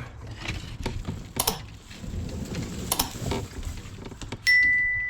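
Clunks and knocks of kayak gear being handled as a kayak goes into the water, with two louder knocks. Near the end a sudden single ringing tone begins and fades slowly, like a struck metal fitting or an electronic beep.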